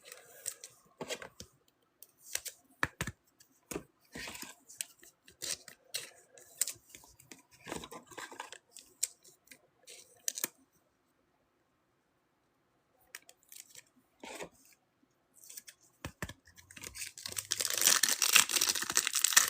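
Trading cards being handled, with scattered light clicks and slaps of cards, then a foil card pack wrapper crinkling and tearing open over the last few seconds.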